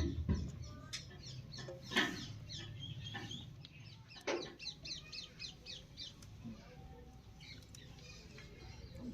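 Birds chirping in quick series of short, high calls, with a couple of sharp knocks.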